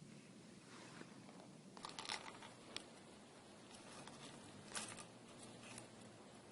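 Near silence: quiet room tone with a few faint rustling clicks, a cluster about two seconds in and a single one near five seconds.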